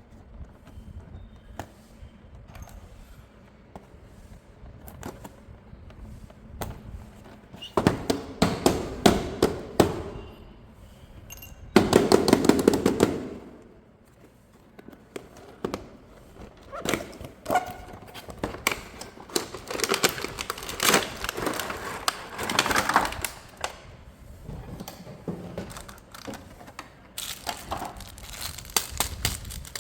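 Hands unboxing a plastic toy: packaging and plastic parts handled with scattered clicks and knocks, and several spells of louder crinkling and rustling.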